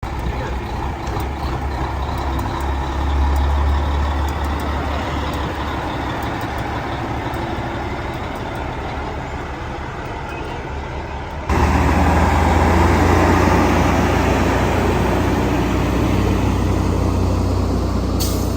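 Old truck engine running as a truck moves past, then a sudden cut about eleven and a half seconds in to another truck engine, louder. A short hiss just before the end.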